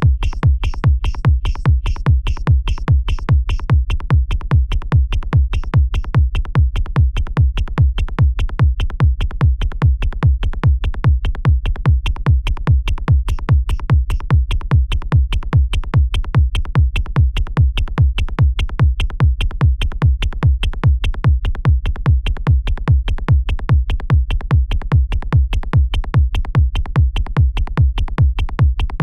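Synthesized techno/trance beat looping in a DAW: a heavy kick drum on a steady, even pulse with a bass line, and bright hi-hats that are most prominent in the first few seconds.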